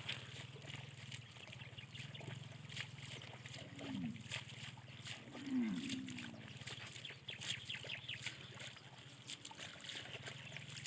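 River water splashing and trickling in small irregular bursts, over a steady low hum. Two short falling voice-like sounds come about four and six seconds in.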